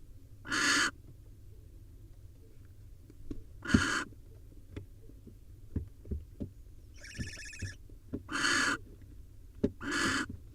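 Barn owl nestlings giving short, harsh hissing begging calls, four of them spaced a few seconds apart, with one more tonal call in between. Faint knocks and scrapes of movement in the nest box come between the calls.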